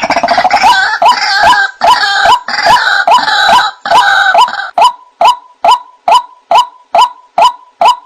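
White-breasted waterhen (ruak-ruak) calling: a dense run of harsh, overlapping croaking notes. A little past halfway it settles into an even series of single 'wak' notes, about two and a half a second.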